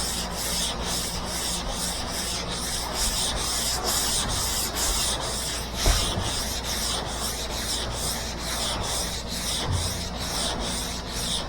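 Hand block-sanding a car body with 80-grit sandpaper: steady, even back-and-forth strokes of coarse paper rasping over body filler, about two to three strokes a second.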